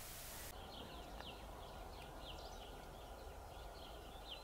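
Songbirds chirping faintly in the distance: many short, high chirps, several a second, over a steady low rumble.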